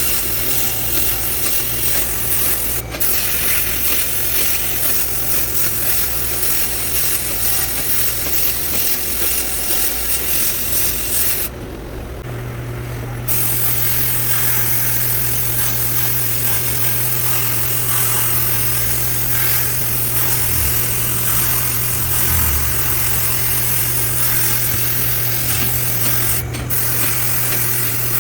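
Sandblaster hissing as glass abrasive is blasted onto winch parts, over a steady low hum. The blast stops for about two seconds partway through, then starts again.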